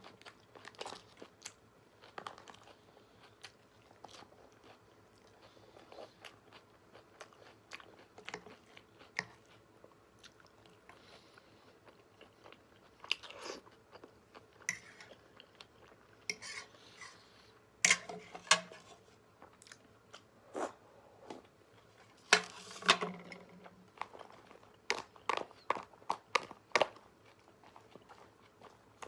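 Close-miked eating: a person chewing and biting food, with scattered wet clicks and crunches. Louder bursts of crunching come about 18 seconds in and again around 23 seconds.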